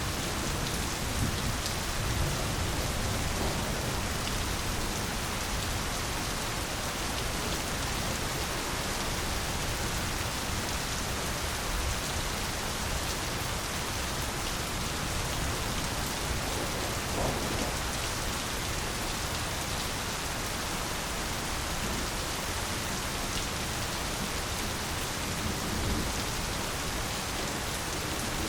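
Steady, even rainfall, with a few louder drops standing out here and there.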